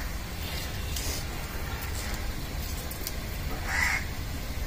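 Bird calling outdoors: a few short calls, faint at first and a louder one near the end, over a steady low rumble.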